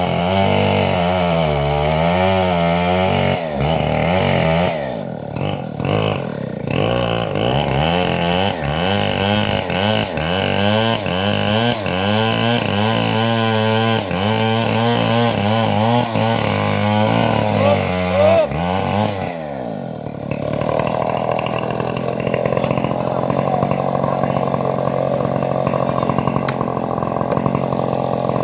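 Homemade bandsaw mill running and cutting trembesi (rain tree) wood, its engine note wavering up and down under the load of the cut. About twenty seconds in the wavering stops and the machine runs on with a steadier, noisier sound.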